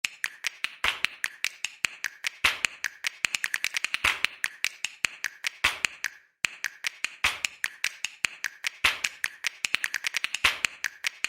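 Rapid, irregular typing clicks, keyboard or typewriter keys, with a short pause about six seconds in.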